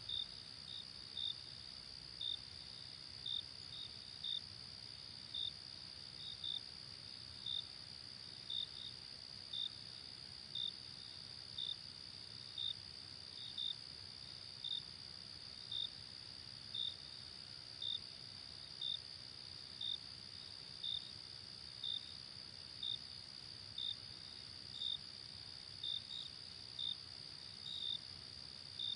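Night forest ambience: a steady high insect drone, with a cricket chirping about once a second, sometimes twice in quick succession.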